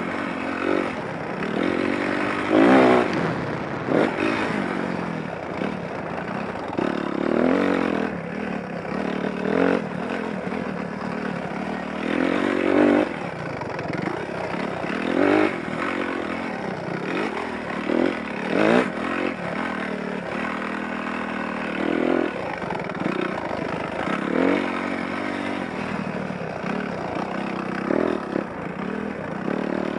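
Dirt bike engine revving up and backing off over and over, its pitch rising and falling every couple of seconds.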